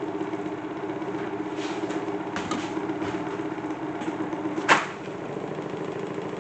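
Small electric fan motor spinning a salad-spinner basket rigged as a toy washing machine, running with a steady hum while the loaded spinner shakes. A few light clicks, then one sharp knock about five seconds in, after which the hum is quieter.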